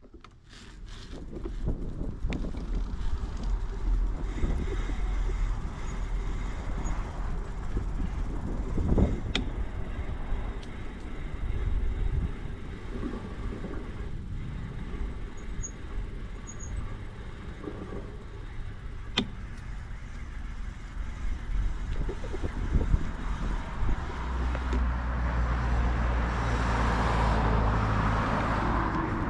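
Bicycle ride noise: an uneven low rumble of wind on the microphone with tyre and road noise, a couple of sharp clicks, and a louder rushing hiss building near the end.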